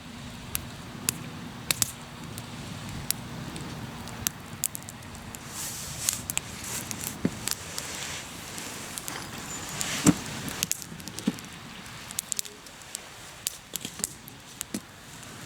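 Hardwood campfire crackling, with frequent sharp pops and snaps over a steady hiss of burning; the loudest pop comes about ten seconds in.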